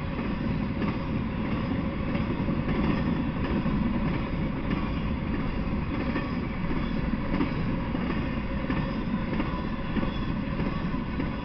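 Intermodal freight train cars carrying semi-trailers rolling past at steady speed: a continuous noise of steel wheels on the rails with faint recurring clacks.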